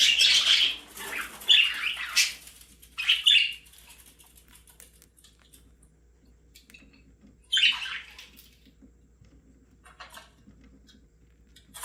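Budgerigar giving a run of short, harsh squawks and chirps, several in the first four seconds, another about eight seconds in and a faint one near the end.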